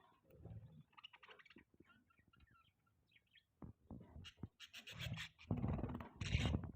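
Pet budgerigars chirping softly, mixed with scratchy clicks and rustles, which grow louder and busier in the second half.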